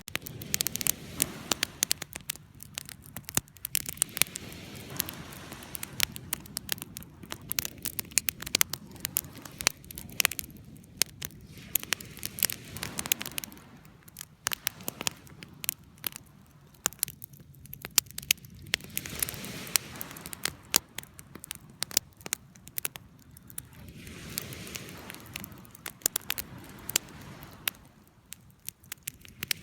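Wood campfire crackling: frequent sharp pops and snaps over a low rush of burning flames that swells and fades every few seconds.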